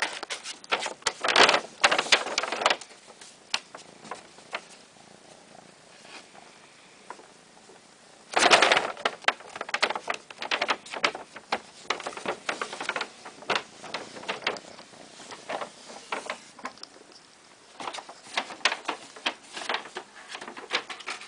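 Plastic bag crinkling and rustling as a cat moves about inside it, in irregular bursts of crackles, loudest about two seconds in and again about eight and a half seconds in.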